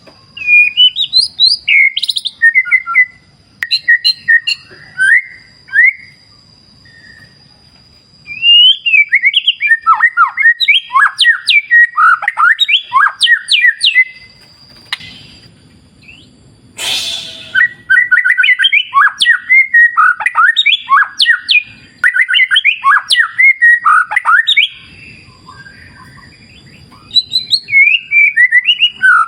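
White-rumped shama (murai batu) singing in several long bursts of rapid, varied whistled phrases, with a thin steady high tone behind them and a brief rush of noise a little past halfway.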